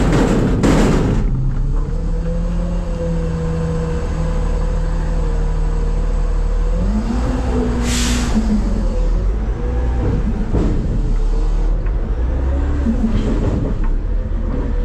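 Front-load garbage truck's diesel engine running steadily, with a few heavy bangs in the first second. About seven seconds in the engine speeds up for a second or two, with a short hiss of air about eight seconds in.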